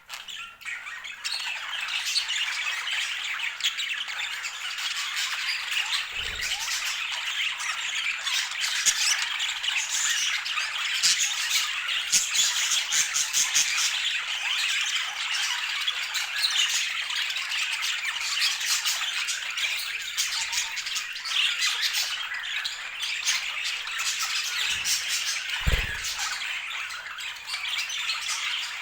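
Budgerigars chattering and squawking continuously, many short overlapping calls and chirps. Twice a short dull thump sounds underneath, about six seconds in and again near the end.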